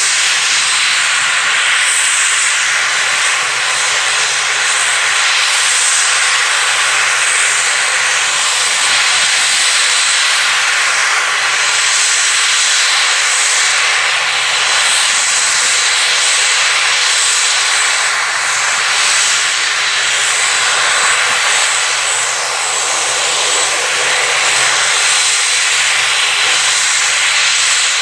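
Aircraft engines running close by, loud and steady, a dense rushing noise with a thin high whine held over it.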